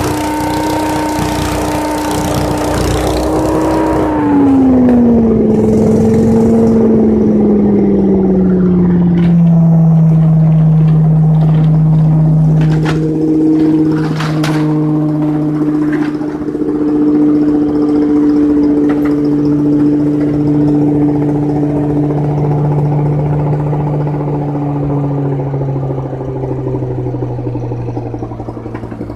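Leaf vacuum's motor running loudly with a rush of air, then dropping in pitch about four seconds in and settling to a lower steady hum for the rest, with a few sharp clicks near the middle.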